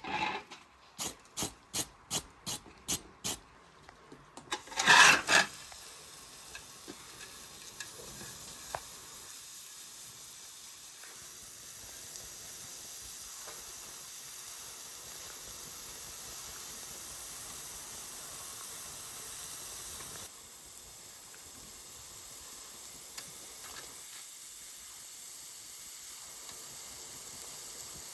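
Gas burner being lit: a quick run of igniter clicks, a loud burst as it catches, then a steady hiss of burning gas that drops slightly in level about two-thirds of the way through.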